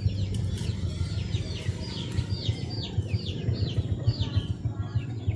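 Birds chirping busily: many short, high notes that fall in pitch, repeating several times a second, over a steady low rumble.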